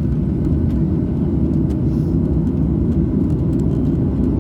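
Steady low rumble of a jet airliner heard from inside the cabin, engines running, with faint scattered clicks and rattles.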